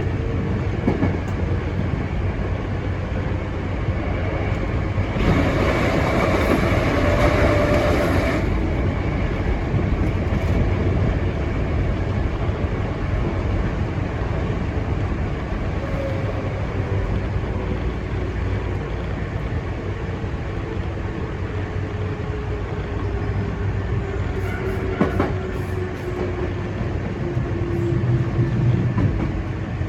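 Hankyu Imazu Line electric train running, heard from inside at the front: a steady rumble of wheels on rail, with a louder rush of noise for about three seconds near the start. In the second half a faint motor whine falls slowly in pitch as the train slows, and a few sharp clicks from the rail joints sound about 25 seconds in.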